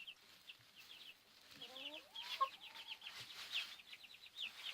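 Cornish cross chicks peeping, a steady stream of short high cheeps. About two seconds in, an adult hen gives a brief, lower-pitched call.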